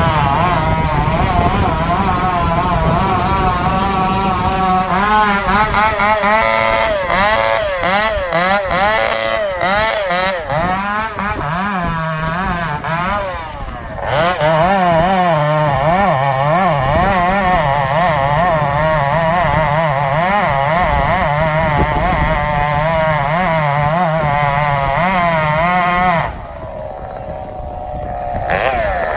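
Chainsaw engine running under load while cutting, its pitch wavering up and down with the cut. It dips briefly about halfway through and drops back to a lower, quieter speed near the end.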